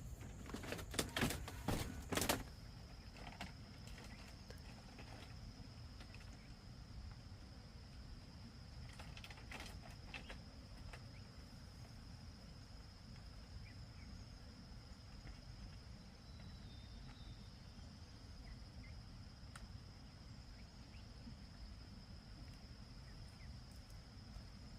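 An insect's steady, high-pitched drone over a low background rumble, with a cluster of knocks in the first two seconds and a few more about ten seconds in.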